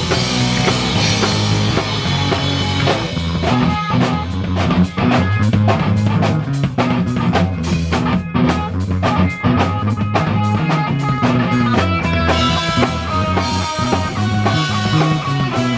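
Rock band playing live: an instrumental stretch of steady drum-kit beats and guitar, with no singing.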